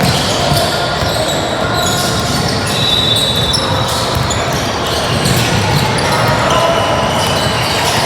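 Youth basketball game in a large gym: a basketball bouncing on the court and sneakers giving short high squeaks, over a steady hum of crowd and players echoing in the hall.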